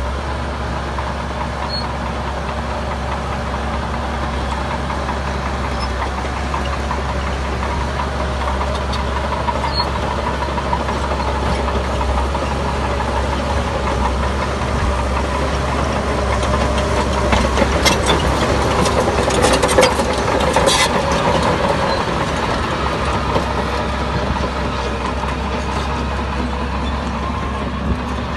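Heavy diesel construction machinery running steadily, its engine growing louder about two-thirds of the way in, with a short run of clanks and knocks at that point.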